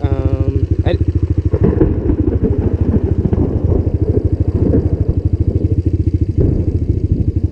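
Suzuki LTZ 250 ATV's single-cylinder four-stroke engine running through a DG Performance RCM II aftermarket exhaust, a steady rapid thumping. From about one and a half seconds in until about six and a half seconds the engine note turns rougher and fuller, then settles back to the even thumping.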